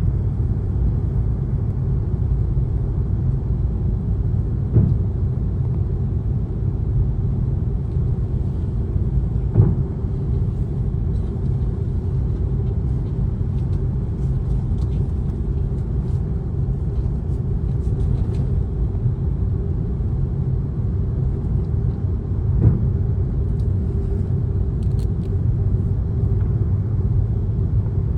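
Airliner cabin noise during takeoff: a steady low rumble of jet engines and airflow with a constant hum, broken by a few faint knocks.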